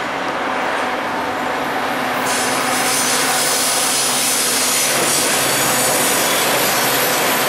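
Metra diesel commuter train approaching: a steady rumble of engine and steel wheels on rails that grows brighter about two seconds in and slightly louder as it nears.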